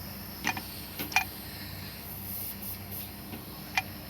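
Air conditioner running with a steady low hum while its compressor pushes air out through the gauge, evacuating the system without a vacuum pump. Three short sharp clicks come through: about half a second in, at about one second, and near the end.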